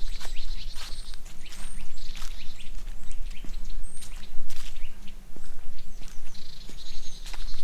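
Footsteps crunching on a forest trail, about two steps a second, with birds giving short high chirps. A buzzing trill sounds at the start and again near the end.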